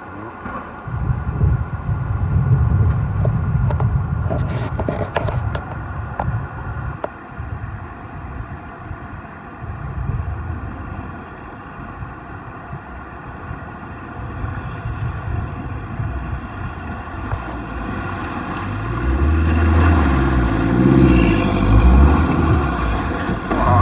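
Four-wheel-drive vehicle's engine labouring unevenly as it crawls over the rocks of a river crossing, with a few sharp knocks about five seconds in. Near the end the engine revs harder, its pitch rising and falling.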